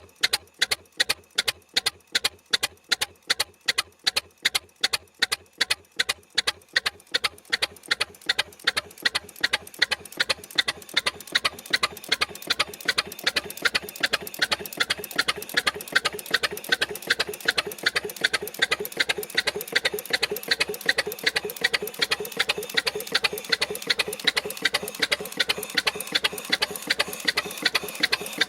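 6 hp Frisco Standard two-cylinder stationary engine running at a slow, even pace, with sharp firing beats about three a second. A steady background rush under the beats grows louder from about halfway through.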